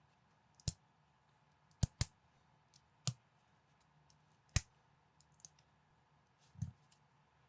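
Plastic building bricks clicking as pieces are pressed and snapped together, about seven sharp, irregularly spaced clicks, with a duller knock near the end.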